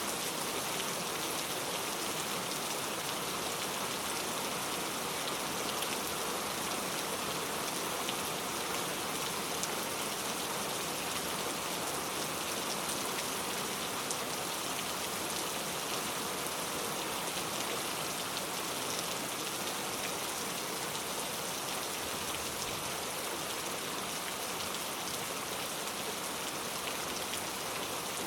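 Heavy rain falling steadily on a leaf-covered road, a dense even patter of drops tapping on the leaves and wet surface.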